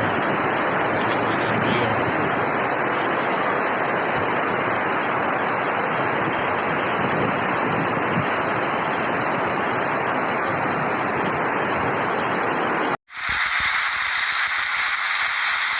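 Heavy rain pouring down in strong wind, a dense, steady roar of water. About 13 seconds in it cuts out for an instant and comes back thinner and hissier.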